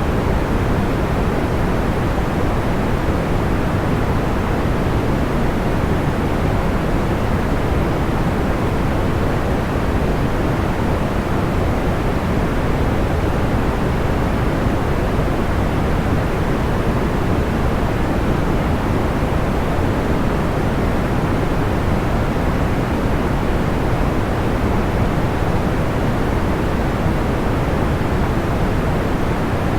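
Steady, unchanging noise weighted toward the low end, a soft even rush without distinct crackles or pops: a sleep white-noise track.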